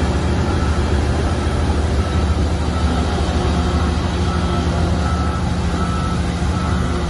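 Heavy diesel earthmoving machinery running steadily, with a reversing alarm giving short high beeps about once a second.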